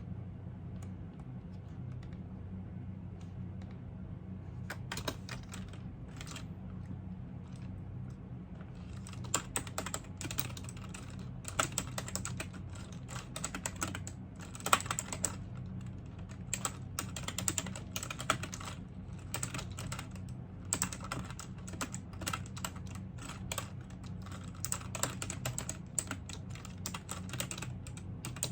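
Typing on a computer keyboard: a few scattered key clicks at first, then fast, continuous typing from about a third of the way in. A low steady hum runs underneath.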